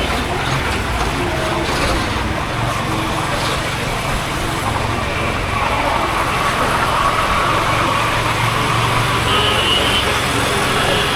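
Honda H'Ness CB350's single-cylinder engine and exhaust running steadily on the move, with road and wind noise and surrounding traffic; a brief high tone sounds near the end.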